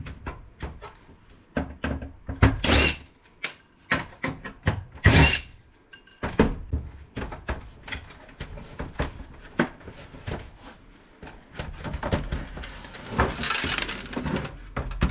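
Irregular clicks, knocks and scraping of plastic and metal computer parts being handled and pried apart while a desktop PC case is disassembled, with a few louder scrapes.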